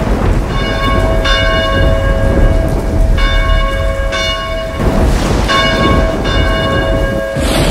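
A church bell tolling in pairs of strokes, about six strokes in all, each ringing on over a steady rumble of heavy rain and storm. Louder thunder surges come about five seconds in and near the end.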